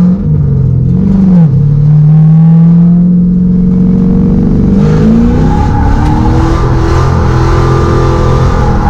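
LS V8 engine of an S13 Silvia drift car revving hard under load, with two short dips in revs in the first second and a half, then climbing steadily. From about five seconds in, a rush of tyre noise joins it as the car slides.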